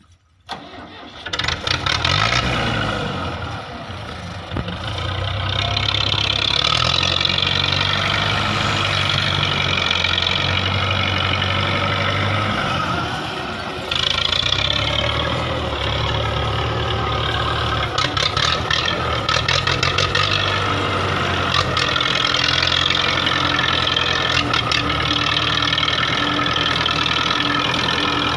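Belarus 510 tractor's diesel engine starting up suddenly within the first second, then running steadily with a low, even beat; it eases off briefly about three to five seconds in and again just before the midpoint.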